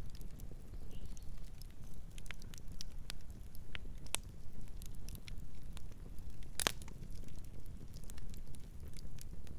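Fire crackling, with irregular sharp pops and snaps over a low steady rumble; one pop about two-thirds of the way through is louder than the rest.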